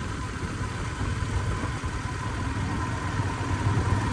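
Wind rushing and buffeting over a phone's microphone on a moving motorcycle, with the steady low drone of a Royal Enfield Interceptor 650's parallel-twin engine underneath.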